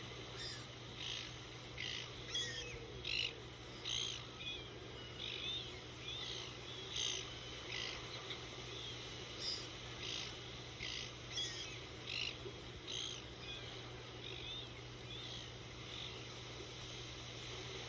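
Birds chirping in short, high calls, about one or two a second, over a steady low hum and faint hiss.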